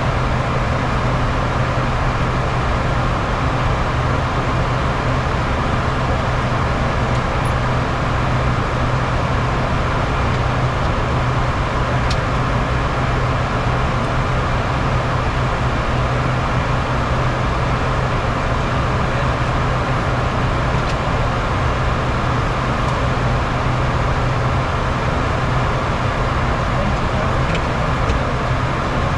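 Bombardier Challenger 350 business jet climbing after takeoff: a steady, unchanging rush of airflow over a constant low hum from its two Honeywell HTF7350 turbofan engines.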